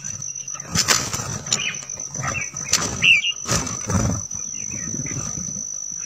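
Red-whiskered bulbuls bathing in a shallow pool: sudden splashes and wing flutters, with a few short chirps about two and three seconds in. A steady high-pitched whine runs underneath.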